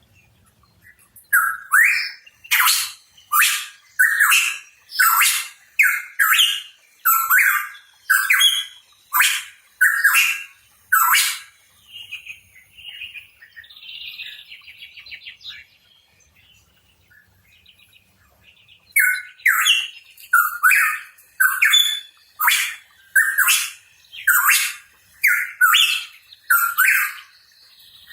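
A pitohui calling: rapid series of loud, sharp notes, about two a second, in two bouts, with a softer warble and a pause of a few seconds between them.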